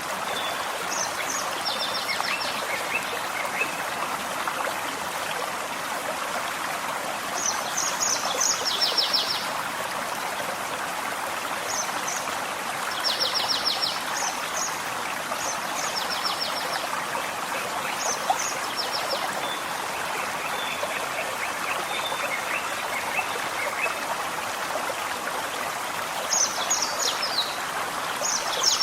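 Forest stream running steadily over stones, a constant watery rush. Over it a small songbird repeats short, high trilled phrases every few seconds, with a lower rapid chatter a couple of times.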